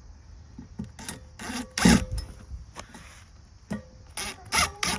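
Irregular knocks and clatter of parts and tools being handled on a pit bike, about nine short hits, the loudest about two seconds in.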